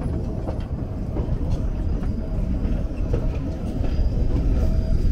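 Tren a las Nubes passenger train running along the track, heard from an open carriage window: a steady rumble of wheels on rail with faint clicks.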